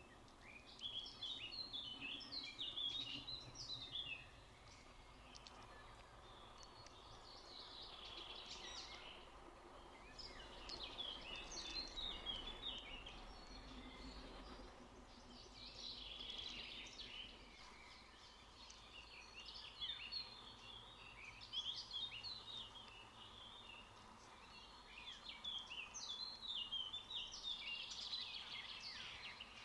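Birds calling in repeated bursts of rapid, high chirps, each burst lasting a few seconds, over a faint steady background hum.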